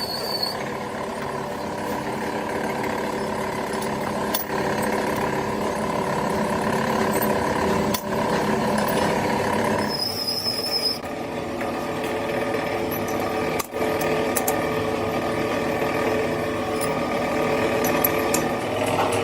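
A steady machine motor running with a constant hum and whine, broken by several abrupt cuts.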